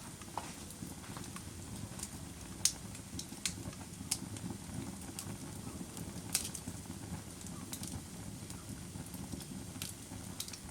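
Fire crackling: irregular sharp pops and snaps, one every second or two, over a steady low rush of burning.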